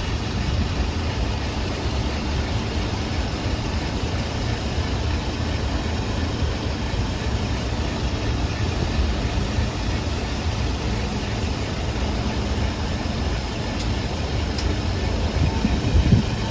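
City bus diesel engine idling with a steady low rumble.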